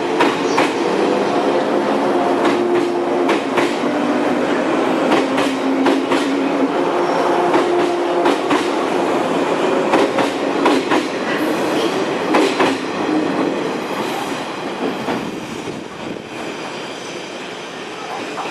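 Electric train pulling out of the station, its wheels clacking over rail joints over a steady running hum. The sound fades away over the last few seconds.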